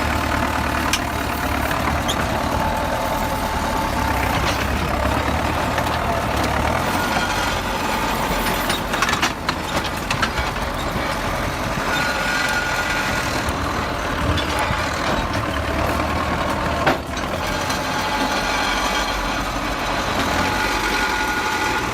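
Heavy vehicle engine running steadily, with a few sharp knocks, the sharpest about seventeen seconds in.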